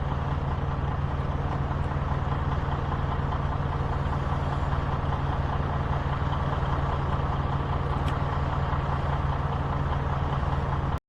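Semi-truck diesel engine idling steadily, a low even hum that cuts off suddenly near the end.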